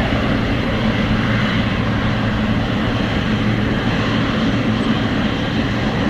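Jet airliner engines running, a steady rumble with hiss.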